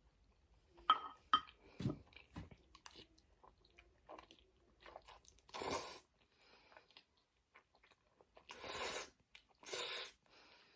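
Close-miked chewing with wet mouth clicks and smacks, followed by three short hissing bursts in the second half.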